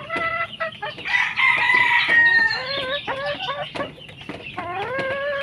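Many chickens clucking and calling over one another in short rising squawks, with one long held crow-like call about a second in.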